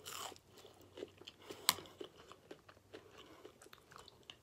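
A person biting into and chewing a piece of soft breakfast-sandwich bun close to the microphone, with many small mouth clicks and one sharper click about a second and a half in.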